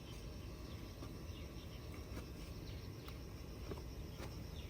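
Quiet background: a steady low rumble with faint insect chirping and a few light ticks.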